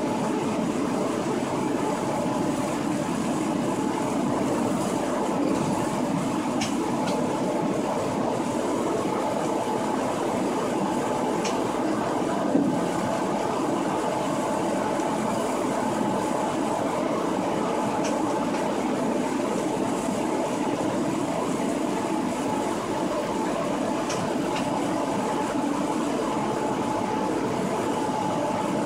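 DB Class 143 electric locomotive running steadily along the line, heard from its driver's cab: an even rumble of wheels on rail with a steady tone over it and a few faint clicks.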